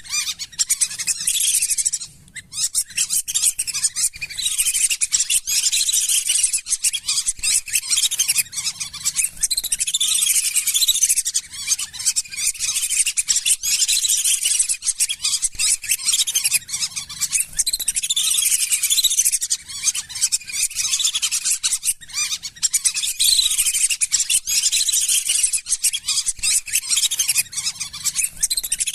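Lesser whistling ducks calling as a flock: a dense chorus of high, squeaky whistled calls, many overlapping, with a brief lull about two seconds in.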